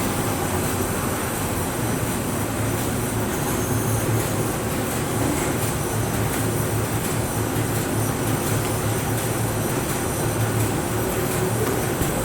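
Label-printing machinery running steadily: a continuous mechanical hum with a faint rapid ticking above it.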